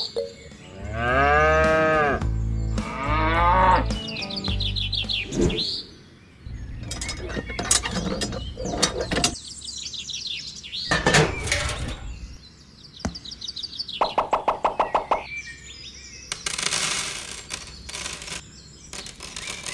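A quick string of separate animal calls and short sound effects, with gliding pitched cries, clicks and a fast pulsing call, over background music.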